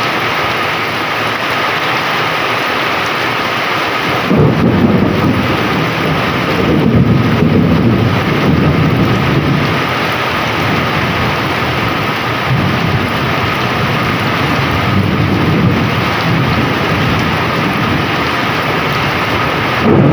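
Heavy rain pouring steadily, with low rolling thunder starting about four seconds in and swelling and fading in waves.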